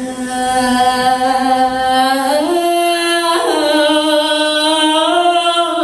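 A single voice sings long held notes without accompaniment. The pitch steps up about two seconds in and slides back down near the end.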